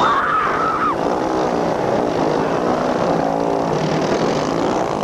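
Several motorcycle engines revving, their pitch rising and falling as the bikes accelerate and back off.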